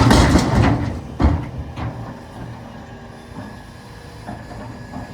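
Volvo EC380EL excavator at work in a rock quarry: its diesel engine runs loud under load, with a sharp metallic clunk about a second in. It then settles to a quieter steady running with light clanks.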